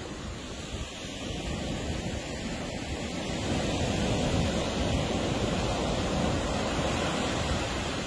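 Ocean surf washing on the beach, a wave swelling up about halfway through, with wind buffeting the microphone.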